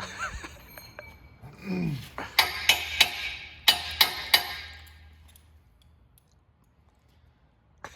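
Metal clinking and clanking: about six sharp, ringing metallic hits within two seconds, dying away after.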